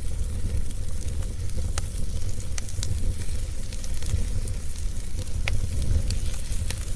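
Fireplace fire crackling, with sharp pops and snaps scattered irregularly over a steady low rumble.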